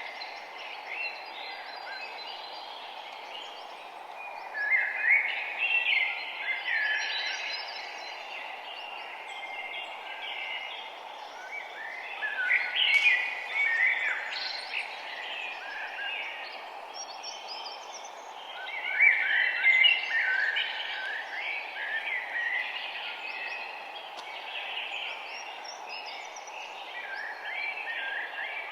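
Songbirds chirping and singing, several overlapping, with louder bouts of song every few seconds over a steady background hiss.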